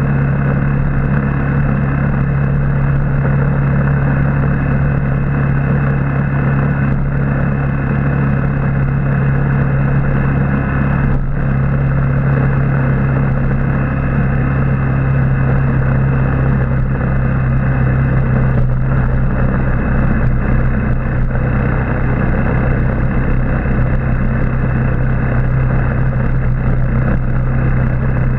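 Motorbike engine running at a steady speed while riding, a low even hum that barely changes pitch, over a constant rush of road noise.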